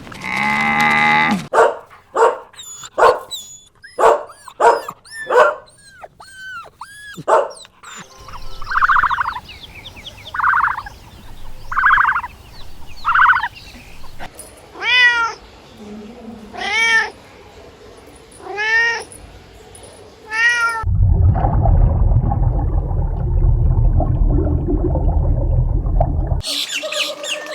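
A series of animal calls, several of them domestic cat meows rising and falling in pitch, about two seconds apart. Near the end comes a loud low rumbling noise lasting about five seconds.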